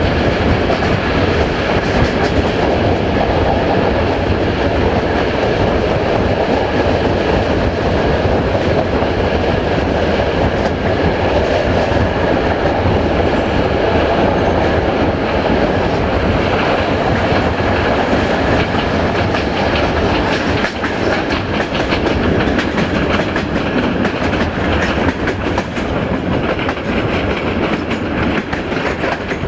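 Passenger train running at speed, heard from aboard: a steady, loud rolling rumble of coach wheels on the rails.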